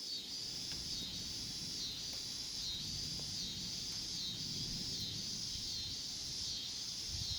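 A steady high insect chorus of crickets or katydids, swelling and dipping about once a second, over a low rumble of wind.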